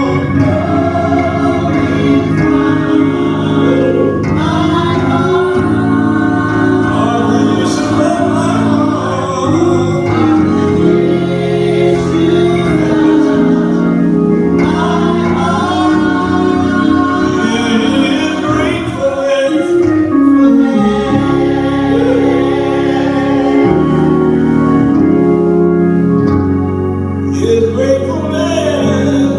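Gospel choir singing with organ accompaniment.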